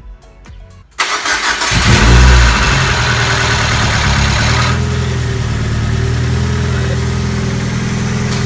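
Mazda Miata's four-cylinder engine cranked by the starter about a second in, catching within a second and flaring loudly before settling into a steady idle: the first start after the rebuild, following many failed attempts.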